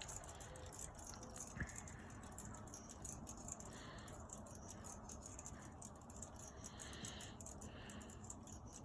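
Quiet room tone with a single faint click about a second and a half in.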